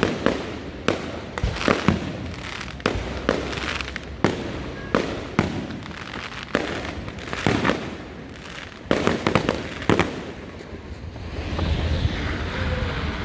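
Aerial fireworks going off: a rapid, irregular string of sharp bangs, about one or two a second, stopping about ten seconds in. A steady rushing noise is left after the last bang.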